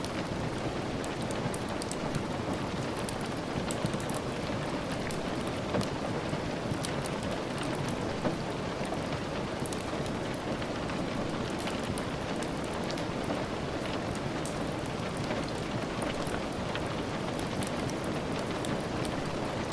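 Steady rain hissing evenly, with scattered sharp pops and ticks from a crackling wood fire.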